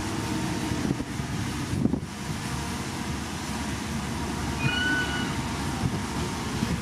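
Komatsu D51PX crawler bulldozer running steadily, its diesel engine mixed with irregular clanks and knocks from the machine and its steel tracks.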